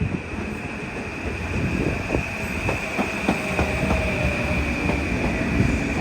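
A train running past at speed, its wheels clicking over rail joints, with a steady high whine over the rumble.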